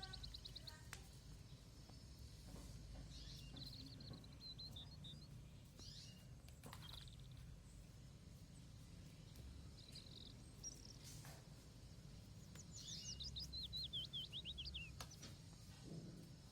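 Faint bird chirps: several short series of quick chirps, the longest and fastest run near the end, over a low steady background rumble.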